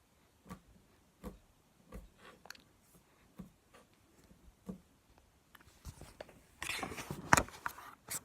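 Handling noise: several soft, separate taps about a second apart, then a second or so of louder rustling with a sharp knock in it, and another knock near the end.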